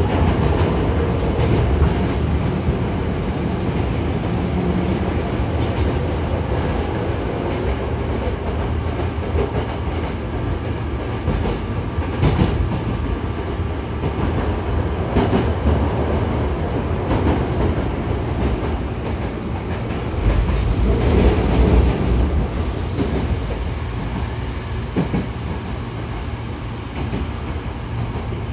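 Hankyu 6000-series electric train running, heard from inside the carriage by the doors. There is a steady rumble of wheels on rail with occasional clacks, and it grows louder for a couple of seconds about two-thirds of the way through.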